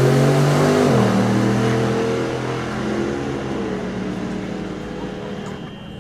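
Drag race car accelerating hard down the strip, its engine pitch dropping at a gear change about a second in, then running on and fading as it pulls away.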